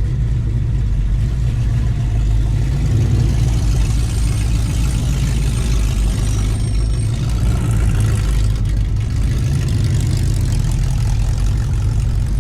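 A car engine idling nearby with a deep, steady rumble.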